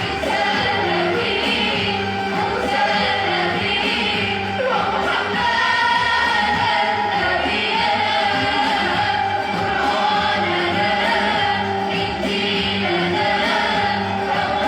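A singing voice performing a long, ornamented Arabic religious melody, with the notes held and bent, over steady lower accompanying tones.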